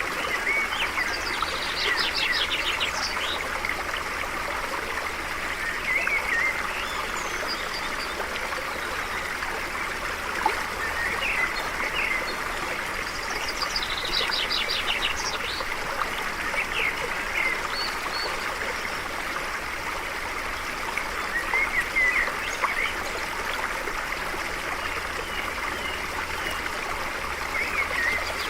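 A stream flowing steadily, with wild birds singing over it: a rapid high trill about a second in and again around halfway, and short chirps scattered throughout.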